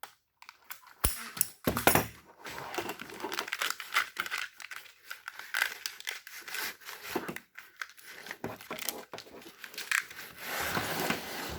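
Corrugated plastic split loom being worked over an engine wiring harness: irregular crinkling and rustling, with a couple of sharp clicks about one and two seconds in.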